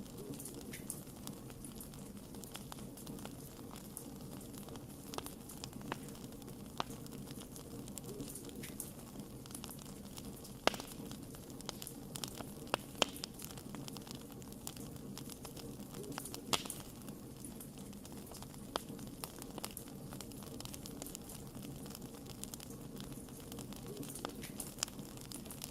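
Campfire crackling: a steady low rush of burning with scattered snaps and pops, the sharpest ones about 11, 13 and 16 seconds in.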